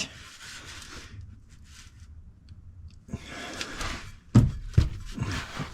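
Handling noise from a section of steel exhaust pipe being worked into place: a scraping stretch about three seconds in, then a few sharp knocks.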